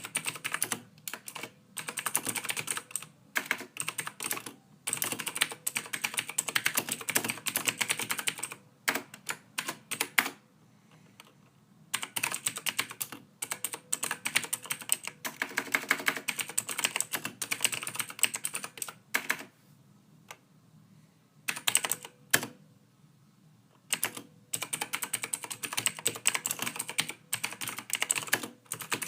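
Soft typing on a computer keyboard: fast runs of keystrokes lasting several seconds, broken by short pauses of a second or two.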